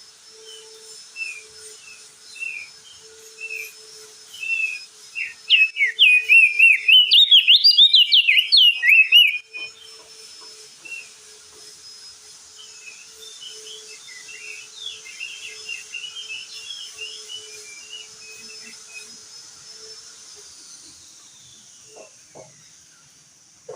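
Crested white-eye (opior jambul) singing: spaced short chirps, then a loud, rapid run of warbling notes for about four seconds, then softer chirping again, over a faint steady hiss.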